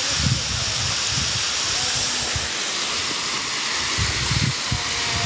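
Waterfall rushing as a steady loud hiss, with irregular low rumbles from handling or wind on the microphone.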